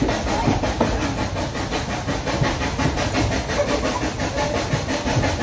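Passenger train running, heard from inside the carriage: a steady noise of the wheels on the rails, strongest in the low end.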